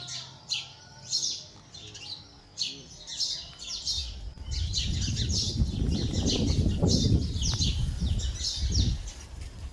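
Birds chirping: many short, high calls, each falling quickly in pitch, several a second. From about halfway a loud low rumbling noise joins in.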